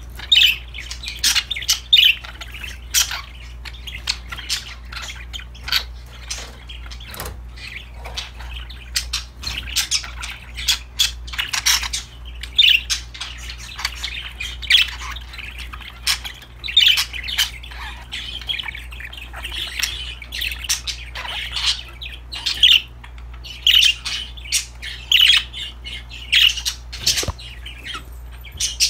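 Budgies chattering: a steady run of short, sharp chirps and squawks, with a low hum underneath.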